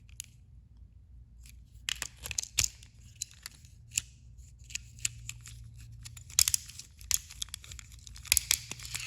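Plastic clicks and scrapes, irregular and in clusters, as a battery-powered toy train engine is handled at its battery compartment, where a corroded battery has been left inside.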